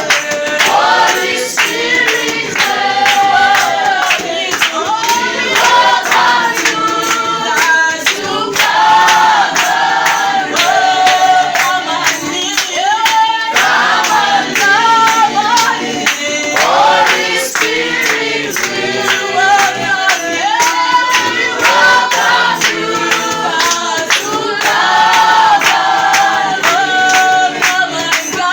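A group of voices singing a worship song together, with steady rhythmic hand clapping keeping the beat.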